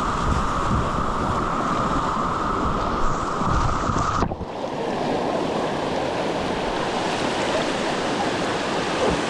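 Rushing river water with wind buffeting the microphone. About four seconds in, the low rumble drops away abruptly and the water rushes on more evenly.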